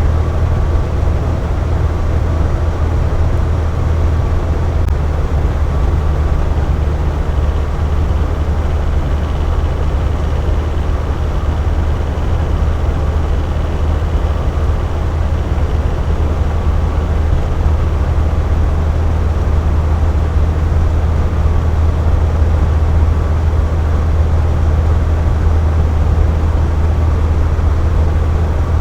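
Box fan running steadily: a constant low hum from the motor and blades under a smooth rush of moving air.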